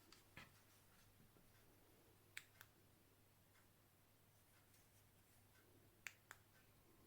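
Near silence: a faint steady low hum, with a few faint clicks, two of them in pairs about a quarter second apart, about two and a half and six seconds in.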